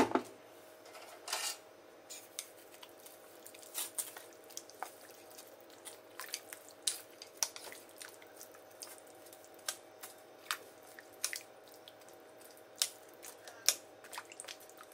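Wooden chopsticks clicking against a stainless steel bowl and each other while raw pork rib pieces are stirred and rinsed in water, in irregular light clicks with one sharper clack near the end. A faint steady hum runs underneath.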